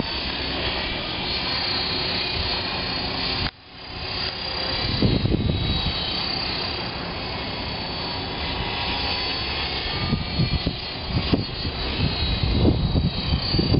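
Align T-Rex 500 Pro electric RC helicopter in flight, its motor and rotor whine steady and wavering slightly in pitch, with strong wind buffeting the microphone in gusts, heavier in the later part. The sound drops out abruptly about three and a half seconds in and comes back over about a second.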